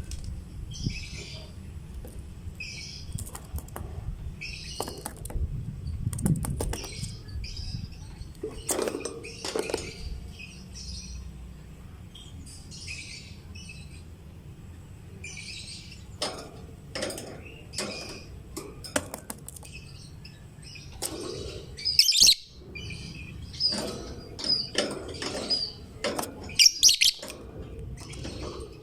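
Lovebird chirping in rapid runs of short, high chirps, with scattered sharp clicks among them; the loudest bursts come about two-thirds of the way in and near the end.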